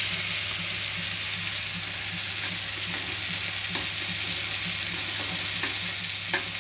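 Stuffed ridge gourds sizzling steadily as they shallow-fry in a little oil on low flame, with a few light clicks in the second half as the tongs touch the pan.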